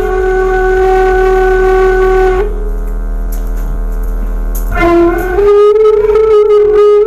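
Bamboo suling (Indonesian end-blown flute) played by a beginner: one long held note that breaks off about two and a half seconds in, then, about two seconds later, a short lower note that steps up into another long held note.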